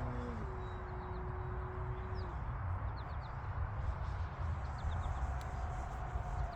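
Distant whine of an electric RC plane's motor and propeller. It drops in pitch about half a second in and fades by two seconds, then comes back near the end, slowly falling, over a steady low rumble of wind on the microphone. Faint bird chirps are scattered throughout.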